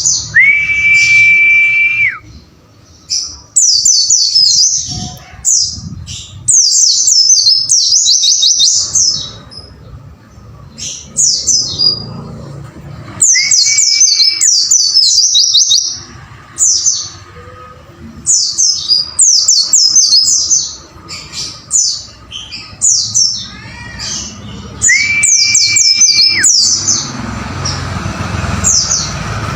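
White-eye (pleci) song: bursts of very fast, high chirping twitters, each lasting a few seconds with short gaps between. Three times a long, steady whistled note sounds, lower than the chirps.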